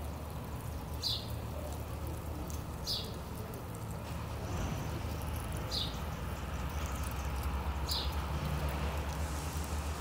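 A bird giving single short, high chirps every two or three seconds, four in all, over a steady low outdoor rumble.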